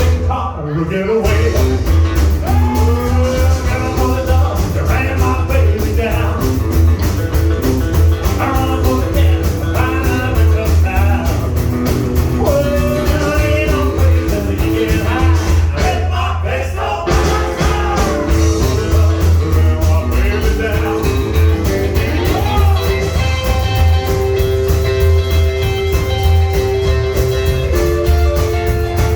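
Rockabilly band playing a rock and roll song, with a lead voice over a steady driving bass and guitar.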